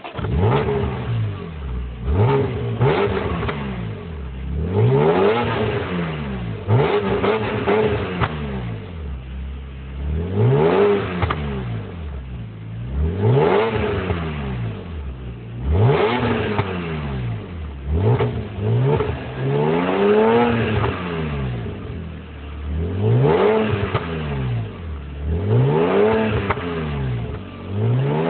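Maruti Suzuki WagonR engine and exhaust being revved again and again, the pitch climbing and dropping back about every two to three seconds.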